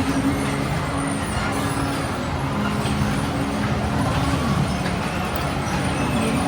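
Amusement ride machinery running with a steady hum whose pitch holds, then glides up or down to a new level a few times, over continuous background noise.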